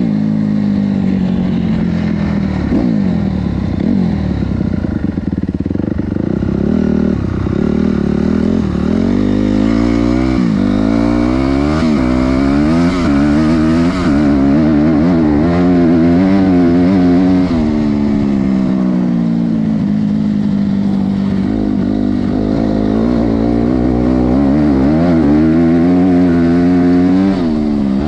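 Honda CRF250R's single-cylinder four-stroke engine being ridden hard. Its pitch climbs and drops again and again as it revs up and backs off.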